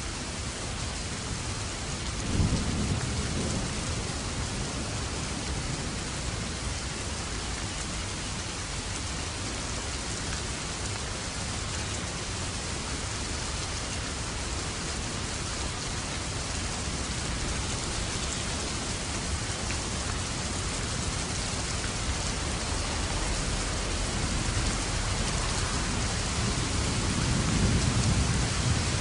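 Steady heavy rain with thunder: a sudden crack and rumble about two and a half seconds in, and another long rumble building near the end.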